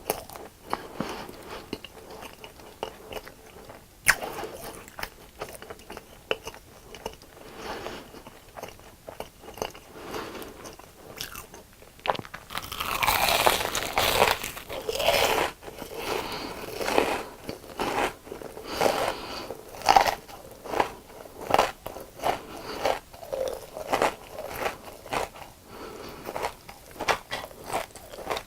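A person biting into and chewing crunchy deep-fried food, close to the microphone. There is a run of repeated crisp crunches, loudest and densest about halfway through, then steady chewing crunches.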